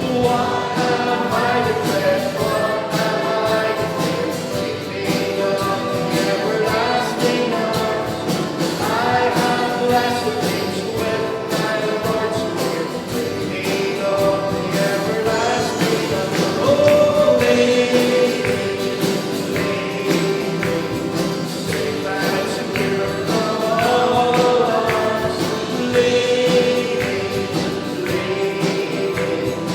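Group of voices singing a gospel worship song with instrumental accompaniment.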